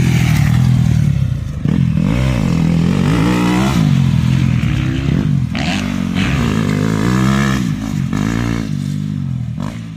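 Yamaha YZ250F motocross bike's four-stroke single-cylinder engine being ridden hard, the throttle opened and closed over and over so its pitch rises and falls about once a second.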